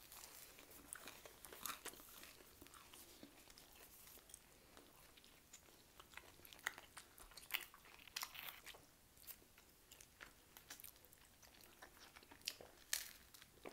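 Quiet, close-up chewing and biting of homemade pizza: soft, irregular crunches and mouth clicks. Near the end comes a sip of orange juice through a straw.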